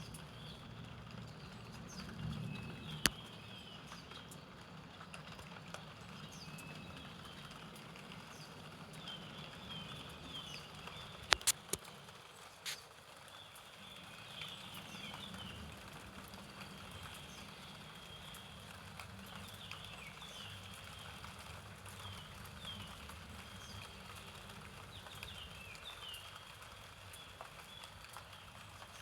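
Forest songbirds calling all through, many short high chirps that fall in pitch, over a steady low rumble and light rain. A few sharp taps stand out, one about three seconds in and a quick cluster of them near the middle.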